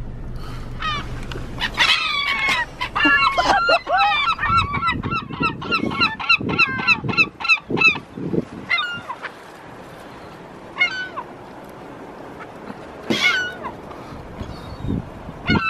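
Seagulls calling: a dense flurry of overlapping squawks over the first half, thinning to a few single calls later.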